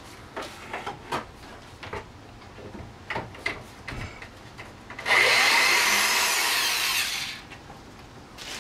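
Scattered knocks and clicks of demolition work on the camper's wooden interior, then, about five seconds in, a power tool cuts into wood for about two seconds, much louder than the knocking.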